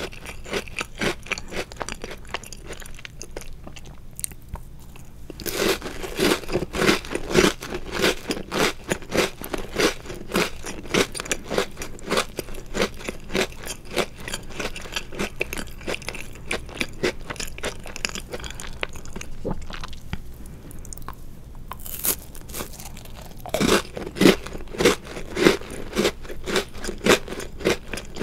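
Close-miked crunching and chewing of chocolate-covered Oreo cookies, a rapid run of crisp crackles that grows louder with fresh bites about five seconds in and again near the end.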